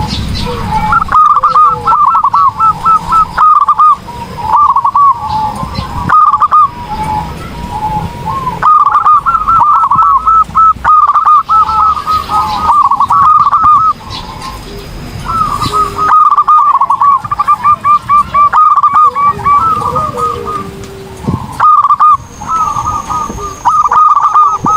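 Zebra dove (perkutut) singing: loud runs of rapid, repeated cooing notes, in phrases of one to three seconds with short pauses between them.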